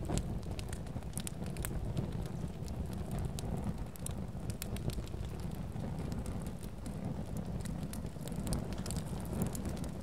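Fireplace fire crackling: many sharp, irregular crackles and pops over a steady low rumble.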